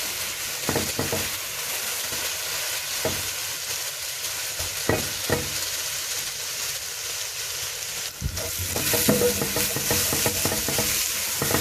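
Garlic and onion sizzling in hot oil in a pot while being stirred, with occasional short knocks of the spoon. The sizzle grows louder about three-quarters of the way through.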